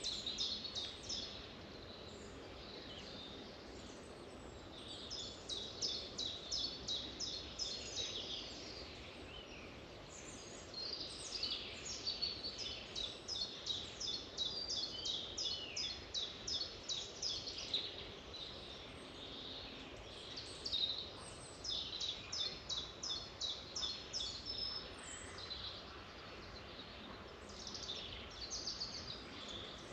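Songbirds singing: runs of short, high chirps repeated several times a second, in phrases of a few seconds with short pauses between, over a faint steady background hiss.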